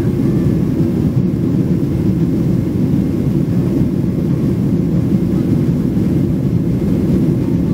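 Jet airliner's engines and rushing air heard inside the passenger cabin in flight: a loud, steady low rumble with no change.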